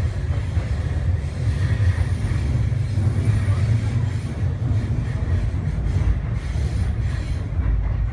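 A moving electric commuter train heard from inside the carriage: a steady low rumble of the wheels and running gear on the track.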